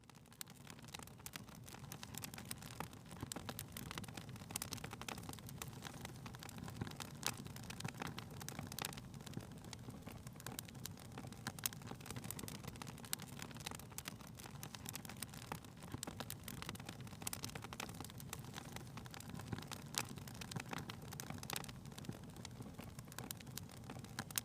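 Fireplace wood fire crackling: an irregular run of sharp pops and snaps over a steady low rumble of the flames.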